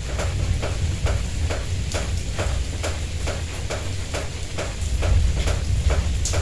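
Rain falling, with drops hitting a nearby surface as quick, irregular taps several times a second over a steady low rumble.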